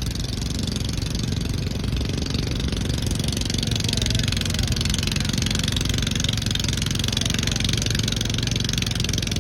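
A garden tractor's engine running steadily at a constant speed, without revving.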